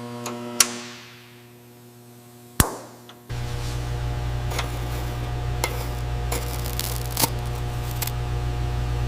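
Two sharp knocks, then from about three seconds in a steady low machine hum with scattered metallic clicks and clinks, over a faint music bed.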